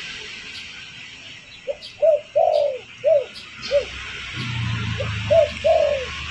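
Spotted dove (derkuku) cooing: two phrases of short arched coos, each with one longer drawn-out note, the first phrase starting about a second and a half in and the second near the end, over a steady background hiss.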